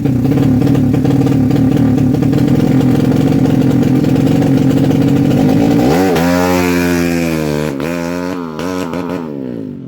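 Honda Karisma motorcycle engine being tuned, running steadily at high revs. From about six seconds in it is revved up and down a few times, then drops away near the end.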